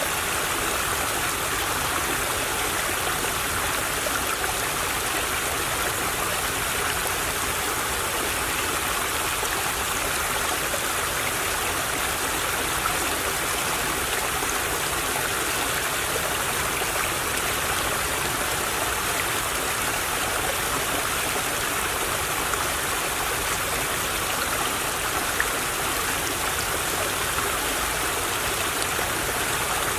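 Small stream of water babbling and trickling steadily over stones, an even, continuous splashing rush.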